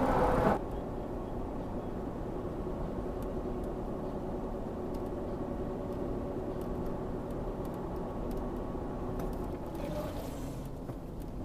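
A car driving along, heard from inside through a dash cam: steady road and engine noise.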